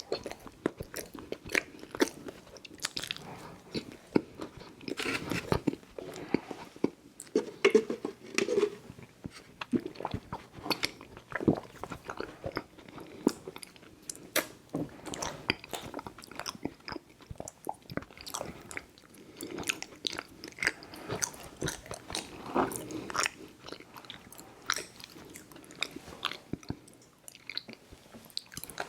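Close-miked chewing and mouth smacking on chewy fruit candy, Airheads Bites and Tootsie Fruit Chews: a steady run of sticky, wet clicks with a few louder bites.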